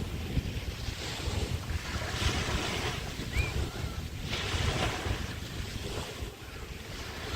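Small bay waves breaking and washing up the sand, with two louder washes, one about two seconds in and one about four seconds in. Wind buffets the microphone underneath.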